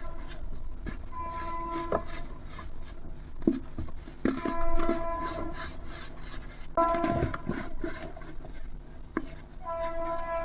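Something brittle being crumbled and crushed by hand: fine crackling and rubbing with several louder crunches. A steady chord of several tones sounds in stretches and cuts in and out.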